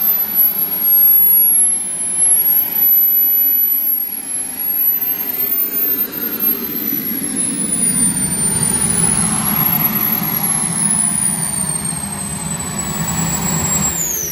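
Small turbine engine of a radio-controlled model jet running on the ground, with a high whine that wavers in pitch over a steady rush that grows fuller from about halfway. Near the end the whine drops steeply as the turbine spools down at shutdown.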